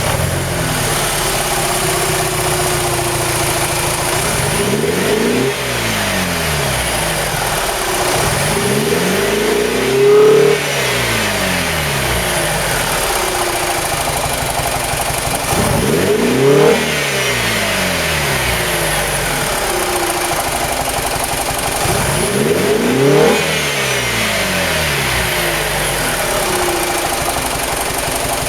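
BMW E87 engine breathing through a GruppeM Super Cleaner air intake, idling and revved four times. Each rev rises and falls back to idle, and none goes above about 3000 rpm.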